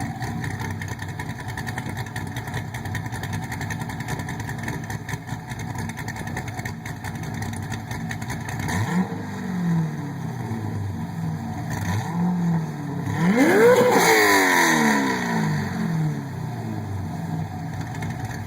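High-compression 447 engine running through a new exhaust. It idles steadily for about nine seconds, is blipped a couple of times, then gives one hard rev that climbs and falls away about two-thirds of the way through, before settling back to idle.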